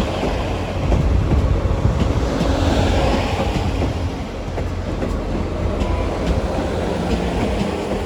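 Passenger train moving through the station: a steady low rumble with scattered clicks of the wheels over the rail joints.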